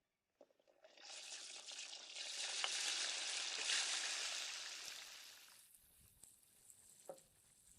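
Food frying in hot oil: a steady sizzle that swells up about a second in and fades away after about four seconds.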